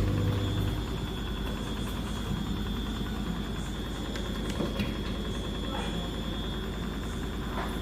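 Beko WS832425s washing machine running with its drum turning: a steady low motor hum under a thin high whine. A deeper hum drops out less than a second in.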